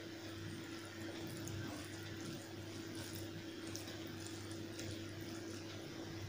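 Faint wet, squishy eating sounds of chicken curry and rice eaten by hand, a few soft smacks among them, over a steady low electrical hum.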